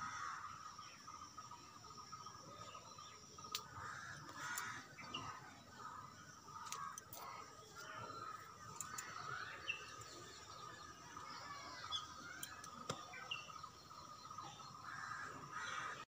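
Faint outdoor garden ambience with a few short bird chirps and occasional light clicks.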